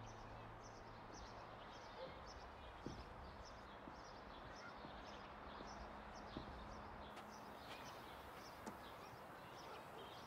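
Near silence: faint room tone with small birds chirping high and quick in the background, a few chirps a second.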